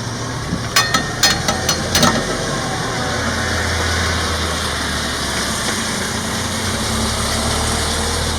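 An engine running steadily at idle, its low hum growing stronger about three seconds in, with a quick run of about six sharp clicks a second or two in.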